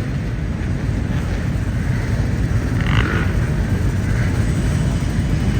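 Motorcycle and moped engines of a group of riders running as they set off behind a police escort, a steady, dense low rumble.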